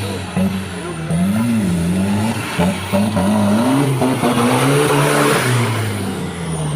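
Off-road 4x4 engine revving up and down over and over as the vehicle works through the course, with a rush of noise about four seconds in.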